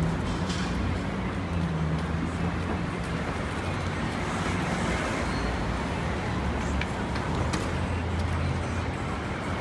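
City street traffic: a steady low hum of vehicle engines, as from a nearby idling or slow-moving vehicle, over the general noise of the avenue.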